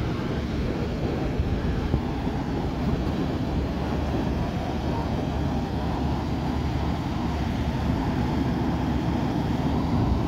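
Airplane flying overhead, heard as a steady rumble that swells slightly toward the end.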